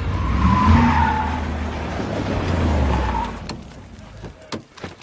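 Car tyres squealing as a vehicle skids in under a running engine, stopping about three and a half seconds in; a few sharp knocks follow.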